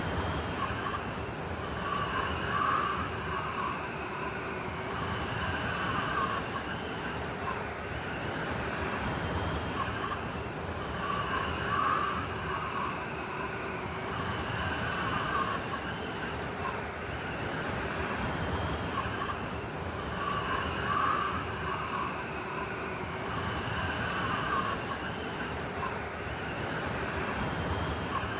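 Blizzard wind blowing steadily with a howling, whistling edge that swells in gusts every several seconds.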